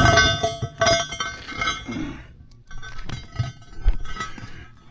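A freshly welded steel splitter part clanking against metal as it is flipped over. There are several sharp clanks, each leaving a bright metallic ring.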